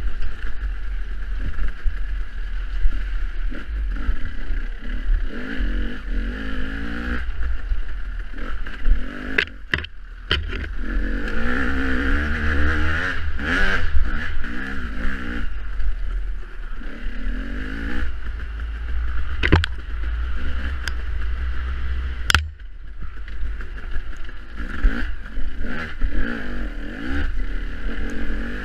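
Dirt bike engine revving up and down over and over as it is ridden through off-road terrain, with wind rumble on the microphone. A few sharp knocks cut through, about ten, twenty and twenty-two seconds in.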